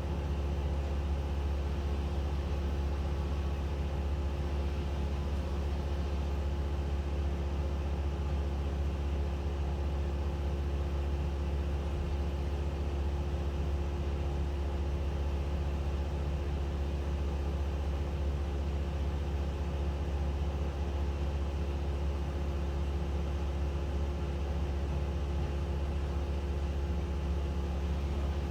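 An engine running steadily at a constant speed: a low hum with a few steady tones above it.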